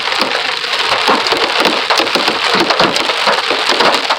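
Heavy hail hitting a car's windshield and roof, heard from inside the cabin: a loud, dense clatter of hard impacts over a steady wash of rain.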